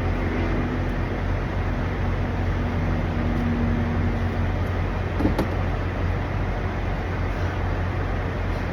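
Steady low rumble of idling truck engines, with a single brief knock about five seconds in.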